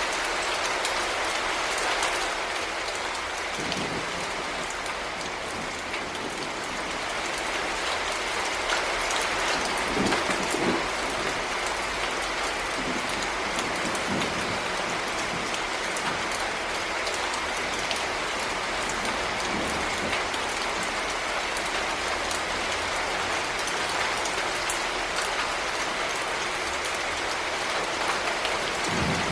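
Heavy rain falling steadily, a dense patter of drops with a few louder low knocks about ten seconds in.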